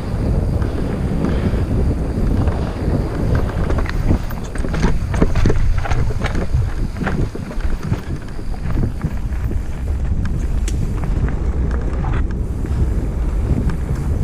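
Wind buffeting the microphone of a camera on a mountain bike descending a dirt trail, with many scattered clicks and knocks from the bike and tyres over rough ground, busiest in the middle.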